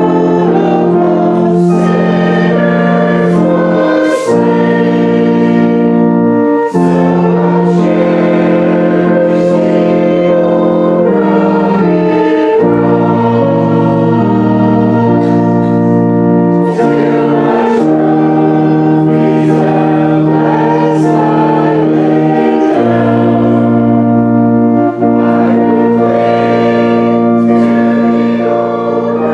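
Congregation singing a hymn in held chords, accompanied by an organ.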